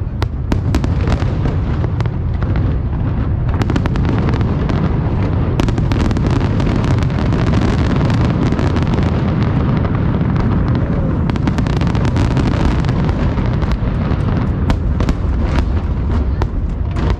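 Fireworks exploding in rapid succession: a continuous rumble of overlapping booms with many sharp cracks and pops, the cracks thickest near the start, about a third of the way in and again in the last few seconds.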